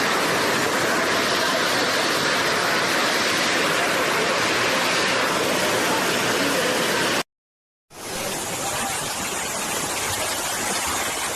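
Rushing floodwater: a steady, loud rushing noise that cuts off abruptly about seven seconds in, followed after a brief silence by another, slightly quieter stretch of rushing water.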